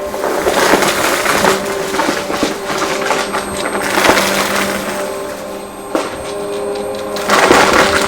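Vacuum cleaner running with a steady motor hum while it sucks up crunchy dry debris, a crackling crunch that swells in surges and is loudest near the end.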